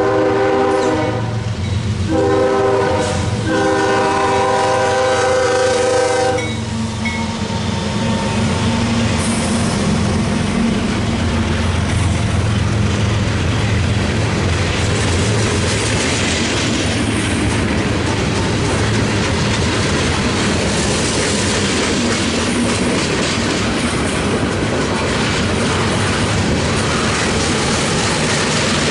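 Freight locomotive's air horn finishing the grade-crossing signal: a long blast that ends about a second in, a short blast, then a long blast that ends about six seconds in. The diesel locomotive then passes, followed by a steady rumble of freight cars rolling by, their wheels clacking over the rail joints.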